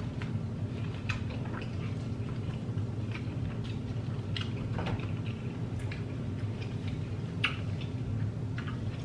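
Chewing and mouth sounds of a person eating corn on the cob: scattered small wet clicks and smacks at an irregular pace over a steady low hum.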